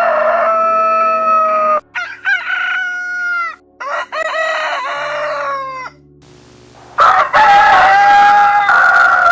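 Roosters crowing: four cock-a-doodle-doo calls one after another, each long and dropping in pitch at the end, the last one the loudest.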